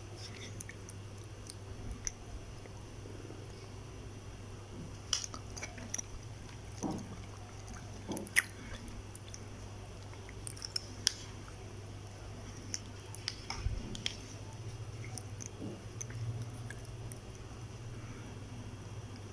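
Someone eating a microwaved steamed egg cup with Kurobuta pork, with quiet chewing and scattered light clicks and taps, the sharpest about five, eight and eleven seconds in, over a steady low hum.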